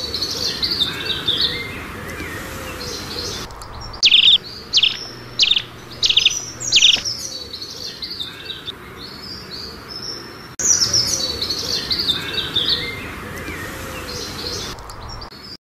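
Birds singing: high twittering song throughout, with a run of about six loud, clear notes, each sliding downward, between about four and seven seconds in.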